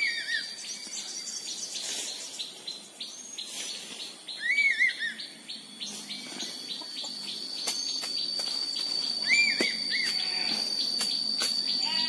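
Bird calls: short groups of two or three arched whistled notes, repeated about every five seconds, over a steady high-pitched insect drone that grows louder about halfway through. Scattered sharp clicks.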